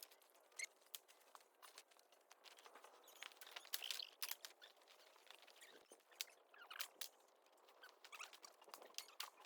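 Small twig and dry cedar-needle fire crackling in a compact secondary-combustion wood stove: faint, irregular pops and snaps.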